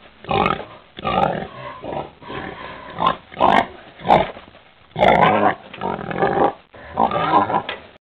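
Pigs grunting: a string of about a dozen short grunts, roughly one or two a second.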